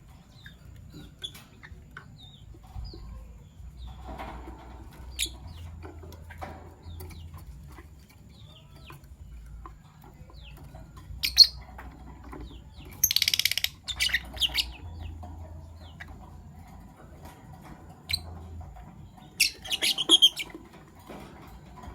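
Fischer's lovebirds giving short shrill chirps, with a dense chattering burst about halfway through and another cluster of calls near the end, between scattered faint clicks.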